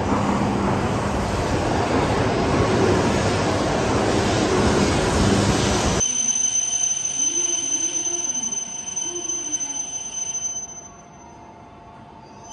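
E7/W7-series Shinkansen train pulling into the platform: a loud, steady rush of wheel and running noise for about six seconds. It then cuts off abruptly to much quieter platform ambience, with a faint high steady tone, while the train stands at the platform.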